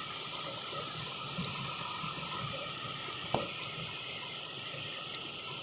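Steady heavy rain falling, with a single sharp knock about three seconds in and a faint click near the end.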